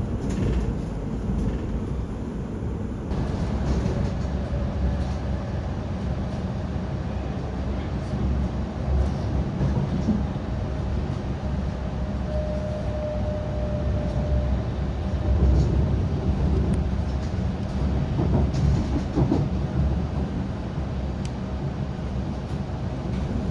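Class 701 'Arterio' electric train running between stations, heard on board: a steady low rumble of wheels on track with scattered clicks over the rail joints. A brief whine rises out of it about halfway through.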